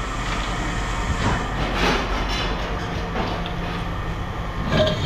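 Scrap metal clattering and scraping, with a few clanks about a second and two seconds in, over the steady hum of an engine running.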